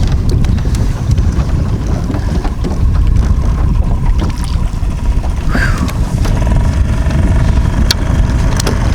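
Wind buffeting the microphone: a loud, uneven low rumble throughout, with a faint steady whine underneath and a few light clicks near the end.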